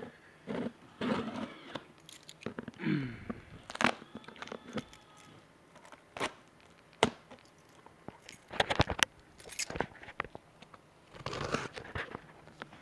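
Cardboard shipping box being handled and opened: irregular crackles, scrapes and sharp clicks from the box and its packing tape, with a denser run of crackling past the middle and again near the end.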